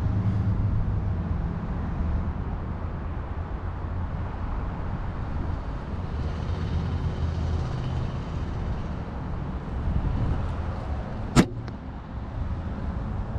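Steady low rumble of road traffic, with one sharp crack about eleven seconds in from a compound bow being shot.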